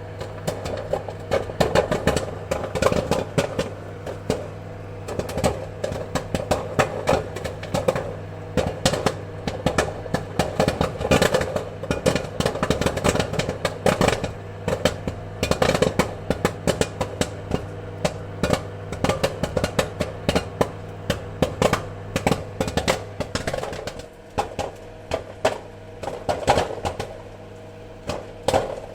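Popcorn popping in quick, irregular runs of sharp pops over a steady low hum, thinning a little for a few seconds near the end.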